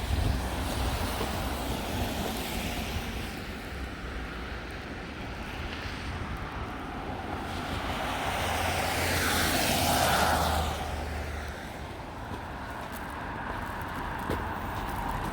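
Outdoor street traffic: a vehicle drives past, its noise swelling to a peak about ten seconds in and then fading, over a low steady rumble.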